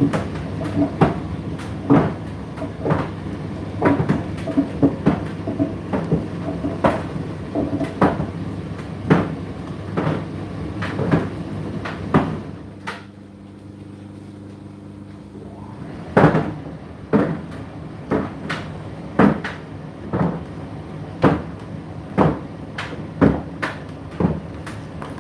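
Indesit IDC8T3 condenser tumble dryer running, its drum turning with a steady hum while the load thumps against it about once a second. About halfway through the thumping stops for around three seconds, leaving only the hum, then starts again.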